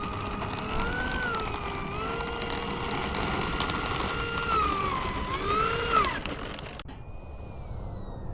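Electric ducted-fan motor of an RC model jet whining in flight, its pitch rising and dipping several times with the throttle, over wind noise. Just before 7 s the sound breaks off and a fainter whine carries on, slowly falling in pitch.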